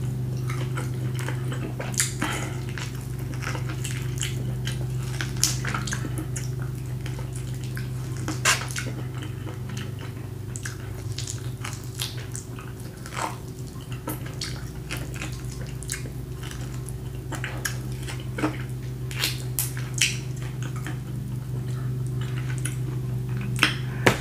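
Close-miked wet chewing, lip-smacking and biting as meat is gnawed off a grilled beef rib, with many short sharp clicks scattered throughout. A steady low hum lies underneath.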